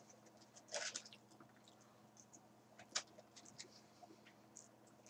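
Faint closed-mouth chewing of fried calamari, with a brief rustle about a second in, a sharp click around three seconds and scattered small ticks, over a low steady hum.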